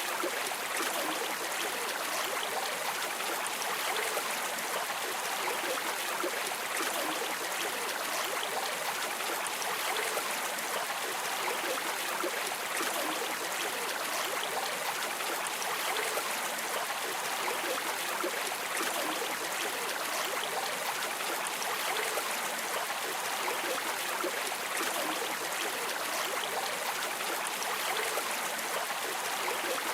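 River water streaming and burbling, a steady rushing with fine splashy texture and no change.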